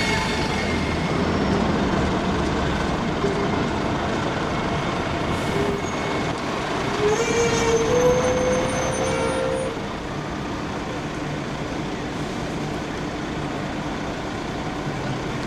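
Busy city-centre bus and tram traffic: vehicles running past with a whine falling in pitch at the start, and a rising tone about seven seconds in that holds for a couple of seconds before fading.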